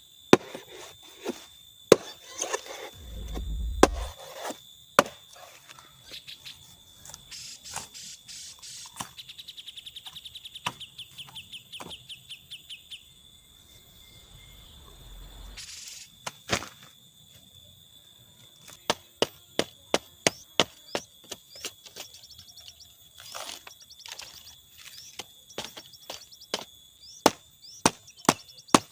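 Bamboo being chopped: scattered sharp woody strikes, then a quick regular run of chops, about two a second, in the second half. A steady high thin whine runs underneath.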